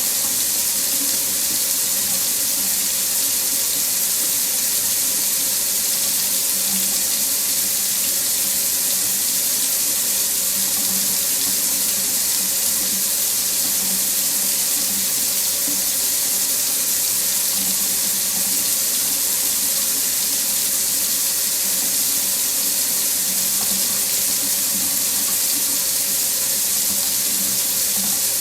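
Faucet running in a steady stream into a sink: an even, unbroken hiss of water with a faint low gurgle under it.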